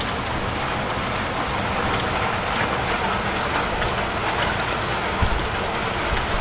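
Heavy storm rain pouring down in a steady hiss, with a brief gust of wind buffeting the microphone about five seconds in.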